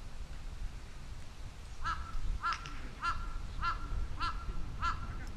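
A bird calling repeatedly, about seven short calls at a steady pace of nearly two a second, starting about two seconds in.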